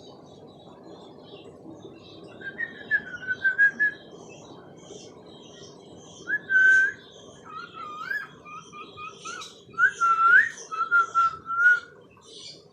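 Cockatiel whistling and chattering in short phrases: a run of quick notes, a held whistle, then a busier string of warbling notes and rising glides.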